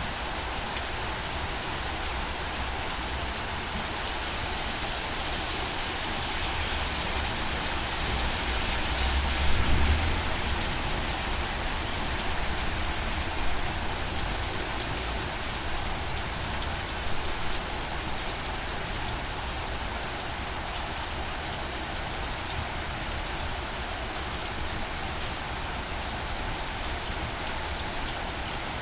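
Steady rain falling, an even hiss of drops striking a surface, with a brief low rumble about ten seconds in and two smaller ones later.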